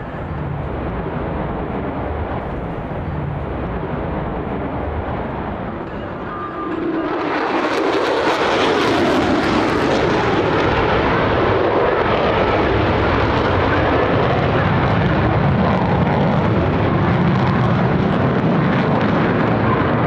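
A Lockheed Martin F-35A fighter's single F135 turbofan jet engine as the jet flies a high-G 360-degree turn: a steady jet noise that swells sharply about seven seconds in as it passes closest, then stays loud and steady.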